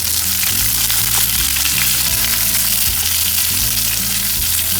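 Chopped onions sizzling steadily as they fry in hot oil in a pan, with background music playing low held notes underneath.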